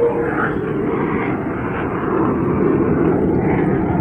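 Loud jet aircraft flying overhead, a steady rushing engine noise that slowly grows louder.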